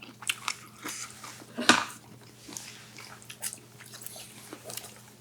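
Close-miked chewing and wet mouth sounds of a person eating jjamppong noodles and shrimp: a string of short clicks and smacks, the sharpest about a second and a half in.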